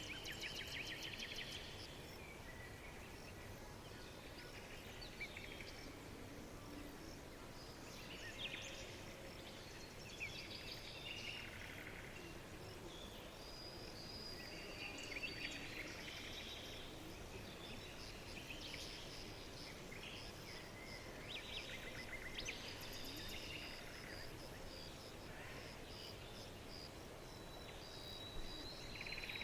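Assorted songbirds chirping, trilling and whistling, one call after another, over a steady low background hiss.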